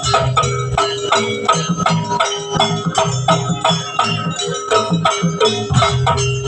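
Javanese jaranan gamelan ensemble playing: quick, even metallic strikes several times a second over a held tone, with drumming in the low end.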